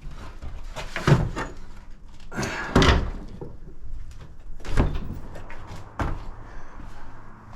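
A series of loud knocks and bangs, four big ones spaced a second or two apart with lighter clicks between, like something being opened up and moved.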